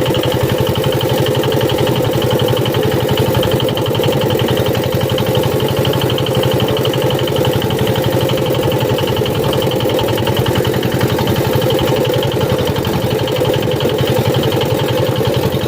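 Small fishing boat's engine running steadily with a fast, even pulsing beat, working under load while it tows a broken-down boat.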